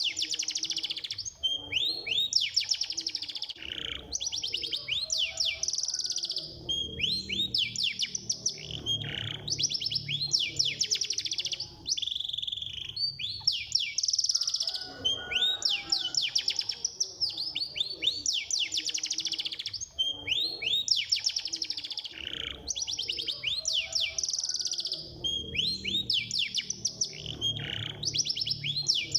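Domestic canary singing a fast, continuous song of rapid trills, each a quick run of repeated notes, one trill following another without a break.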